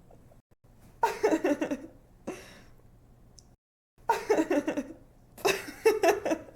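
A young woman laughing in bouts of quick, pulsing giggles: one bout about a second in, then two more from about four seconds in, each ending abruptly as the recorded laugh clip cuts off.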